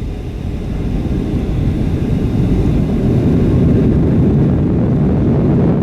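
Boeing 757-200 heard from inside the cabin on its landing rollout: a low roar of the engines and rushing air that builds over the first few seconds and then holds steady.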